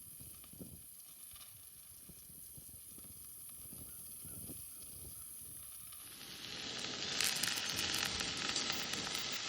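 Sausages and hash browns frying: a faint hiss of hot fat, which turns into much louder, dense sizzling about six seconds in.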